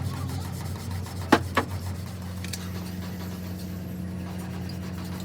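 Steady low engine hum, with two sharp knocks in quick succession about a second and a half in.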